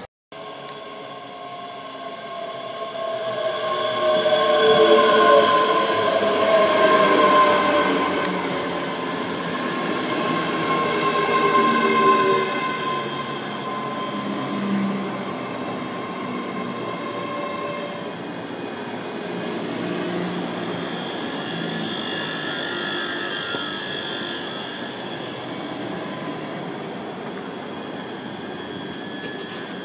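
ScotRail electric multiple unit running in along the platform. Its traction motors whine in several tones that fall in pitch as it slows, over wheel and rail noise. The sound loudens over the first few seconds, then settles after about 18 seconds to a steadier, lower rail rumble.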